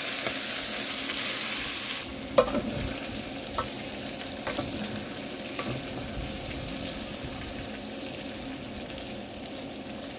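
Pork pieces sizzling as they fry in a stainless steel wok, stirred with a metal spoon that clicks and scrapes against the pan a few times. The sizzle is louder at first and settles to a quieter, steady frying after about two seconds.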